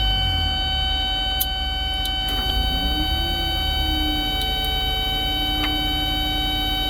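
Caterpillar 320 excavator's diesel engine running steadily, its low drone easing slightly right at the start, with steady high whining tones over it and a few faint clicks.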